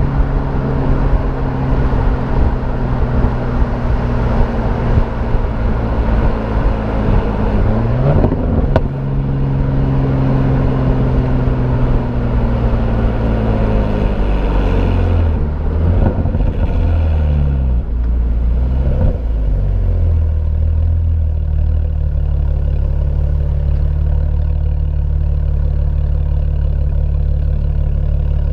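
BMW E90 328i straight-six with AA headers and a performance exhaust, running under way with a short rise in revs about eight seconds in. The engine note then falls in several steps as the automatic gearbox shifts down while the car slows, and it settles into a steady low idle for the last several seconds.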